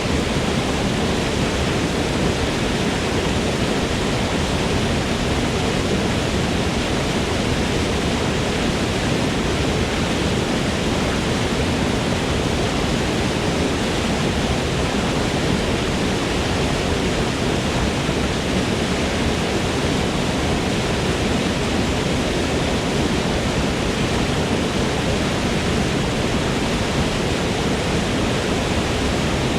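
Waterfall pouring in a steady, unbroken rush of water noise.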